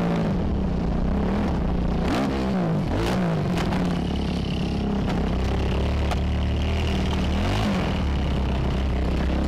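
Dirt bike engine revving hard, its pitch climbing and dropping again and again as the throttle is worked, with a few sharp knocks along the way.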